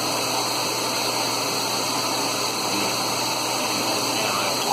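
Water pouring into the tub of a 1984 Whirlpool automatic washer during the fill, a steady hiss over a low hum. It cuts off abruptly right at the end as the fill shuts off.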